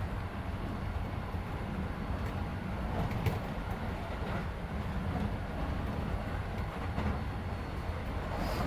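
Keisei 3400 series electric train heard from inside a passenger car while running between stations: a steady low rumble of wheels and running gear. A few sharp clicks of the wheels passing over rail joints come at irregular moments, one just past the middle.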